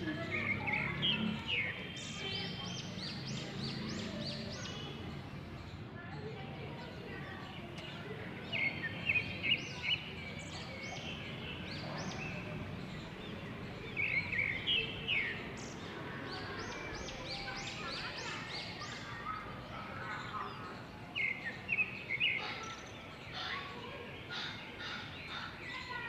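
Small birds chirping in several short runs of quick, high chirps over a steady outdoor background hiss.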